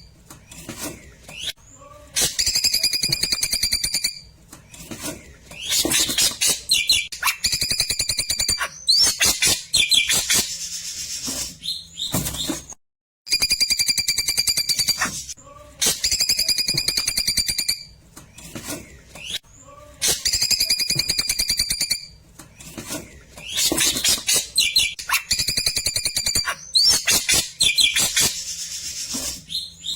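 Klewer bird singing: bursts of rapid, chattering trilled phrases with steady high whistled notes, broken by short pauses. The same sequence repeats about every 13 seconds, a looped recording used as a song tutor (masteran) for white-rumped shamas.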